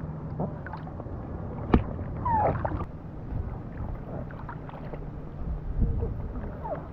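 Kayak on the water: steady low sloshing and rumble of water around the hull and paddles, with light clicks and one sharp knock a little under two seconds in.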